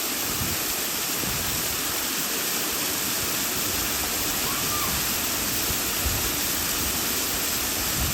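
Waterfall's falling water rushing steadily, a dense, even roar of water.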